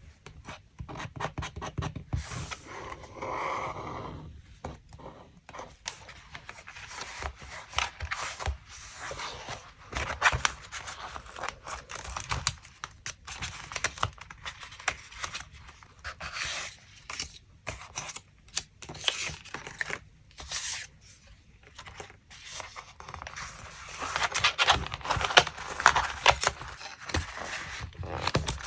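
Paper being handled for a scrapbook collage: irregular rustling and scraping of paper with many small clicks and taps, busier and louder near the end.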